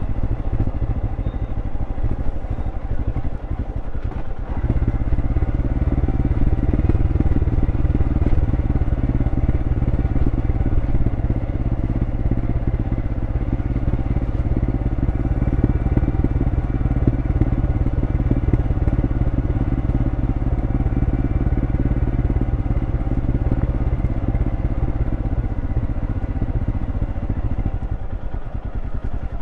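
Royal Enfield Scram 411's single-cylinder engine running through its stock exhaust while riding. It is a little softer for the first few seconds, picks up about four seconds in and holds steady, then eases slightly near the end.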